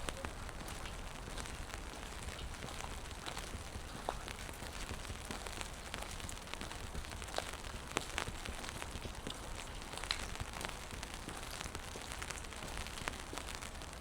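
Steady rain falling on pavement, with many scattered drops ticking irregularly.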